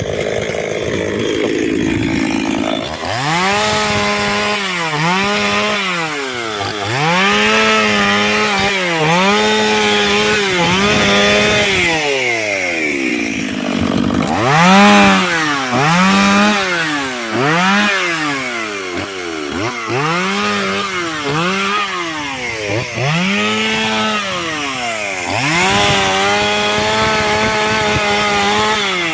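A chainsaw cutting firewood: its engine revs up to full speed and drops back again and again, about once a second. About halfway through it sinks lower for a moment before revving up again.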